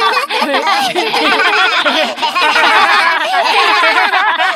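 Several cartoon character voices laughing and giggling together, overlapping.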